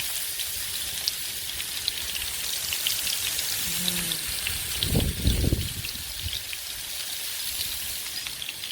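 Kofta kebabs sizzling on a grill over a campfire: a steady hiss with many small crackles and pops. A brief low hum comes about four seconds in, and a low thump about five seconds in.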